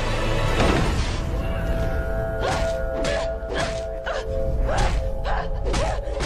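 Tense film score with a rapid string of fight hits and thuds, punches and blows landing about every half second in the second half.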